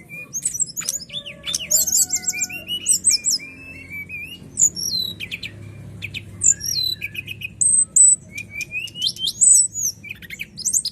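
A caged songbird singing a fast, varied song of high chirps, gliding whistles and rapid trills, one phrase after another with barely a pause.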